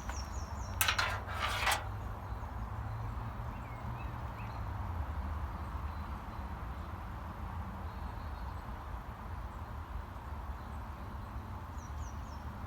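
Woodland sounds: a steady low rumble, a short crackling rustle about a second in, and a small bird singing a quick run of high notes at the start and again near the end.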